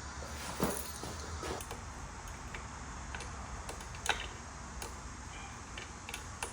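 Scattered sharp metal clicks and taps of hand tools on a dirt bike, about ten at uneven spacing, the loudest about half a second in and about four seconds in, as the chain tension is adjusted. A steady low hum runs underneath.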